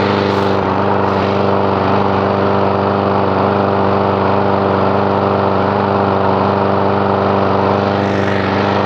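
A 4.5 horsepower Briggs & Stratton small engine running steadily at a constant speed on its first start of the season.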